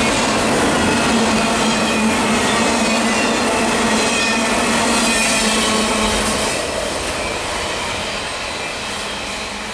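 Loaded autorack freight cars rolling past at speed, steel wheels on rail giving a steady rumble with thin high squealing tones. About six and a half seconds in, the last car passes and the sound fades as the train moves away.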